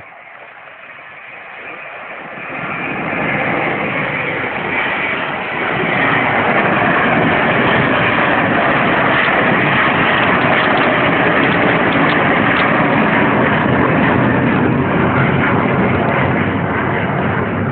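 Boeing 707 jet engines running at high power, growing steadily louder over the first six seconds and then holding a loud, steady roar until it drops off sharply at the very end.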